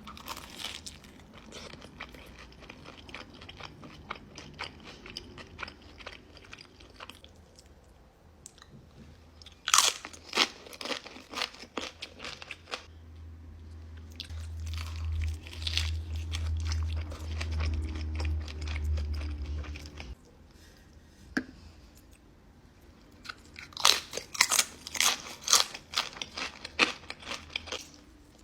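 Close-miked eating: crisp food crunched in repeated bites and chewed, with the loudest crunches about ten seconds in and again in a cluster near the end. A low rumble runs underneath for several seconds in the middle.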